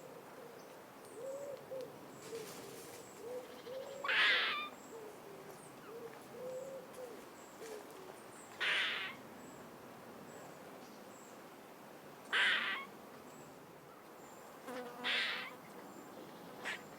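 Outdoor bird calls: a short harsh call repeats about every four seconds, with low wavering notes in between and faint high chirps.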